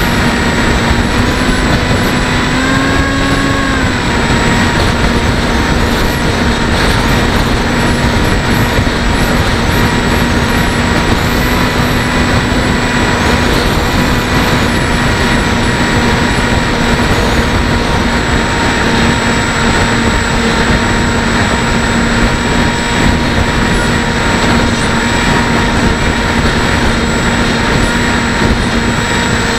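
Bixler 1.1 model plane's brushless electric motor and pusher propeller whining steadily under heavy wind rush on the onboard camera. The motor's pitch rises briefly about three seconds in, then settles back.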